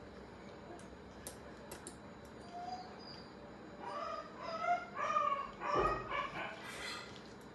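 An animal's short, high-pitched cries, several in quick succession starting about halfway through, preceded by a few faint clicks.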